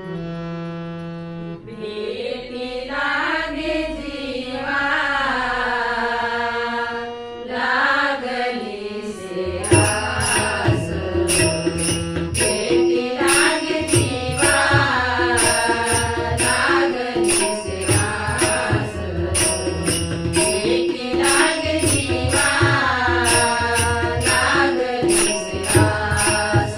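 Marathi devotional abhang sung by a woman over harmonium. The harmonium plays alone at first, then the singing comes in, and about ten seconds in a tabla and tal hand cymbals join in a steady beat.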